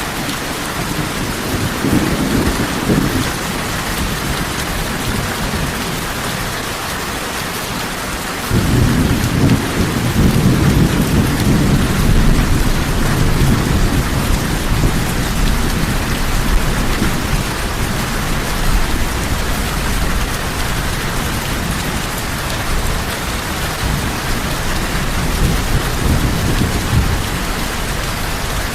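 Heavy rain falling steadily, with thunder rumbling low beneath it. A long roll of thunder starts suddenly about eight seconds in and keeps rumbling, swelling and easing, under the rain.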